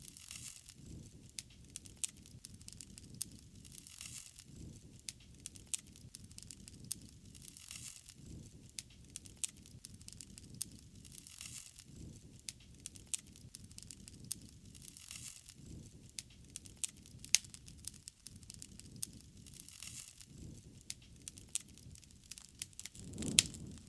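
Wood fire crackling, with frequent sharp pops and a low flame rush that swells and fades every few seconds, strongest near the end.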